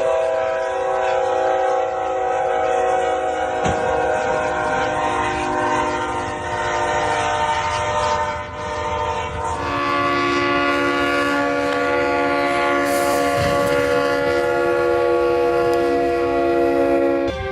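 Train horn sounding one long, steady chord, then, after an abrupt change about ten seconds in, a train horn sounding a different chord, held to near the end.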